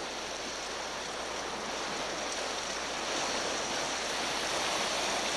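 Steady rush of waves and surf, growing slowly a little louder.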